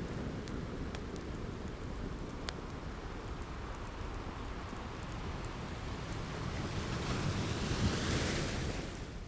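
Ocean surf with a steady low rumble, one wave washing in as a hiss that swells about seven seconds in and dies away near the end. Faint scattered crackles of a wood fire sound over it.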